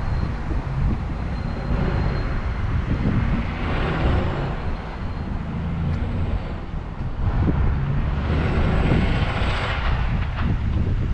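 Wind rumbling on the microphone of a moving bicycle, with road traffic swelling up twice as vehicles pass.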